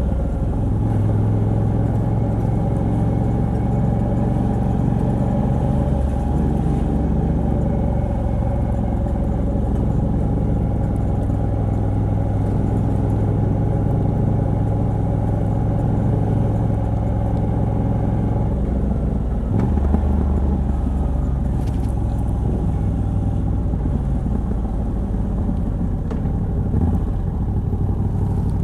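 Moto Guzzi V85TT's air-cooled 90° V-twin running through a stock exhaust with a Mistral decat pipe, cruising at steady revs. The engine note shifts about two-thirds of the way through, then carries on steadily.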